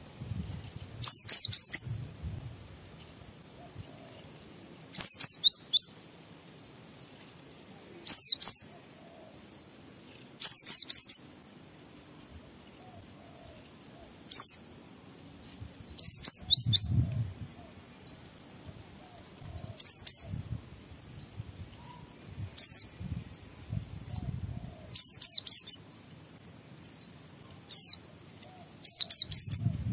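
A pet white-eye (pleci) singing. It gives short bursts of rapid, high-pitched chirping notes about every two to four seconds, some ten phrases in all, over a faint low background rumble.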